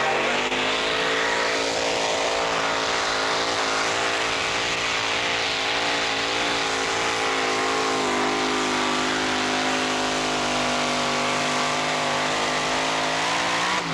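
Competition pulling tractor's engine running flat out under load as it drags the weight sled down the track, its pitch held high and steady with a slight waver.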